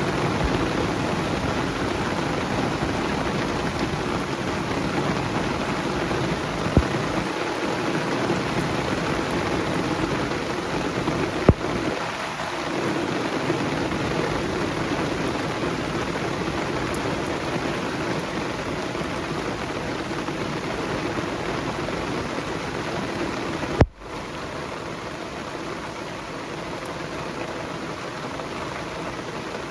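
Steady rain pattering on banana leaves. A few sharp clicks cut through it; the loudest comes near the end with a momentary gap, after which the rain is a little quieter.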